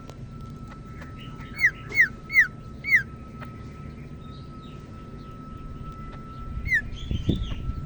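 Cucak ijo (green leafbird) singing: four loud, quick down-slurred whistled notes in a row about a second and a half in, then softer chirps, and another burst of notes near the end.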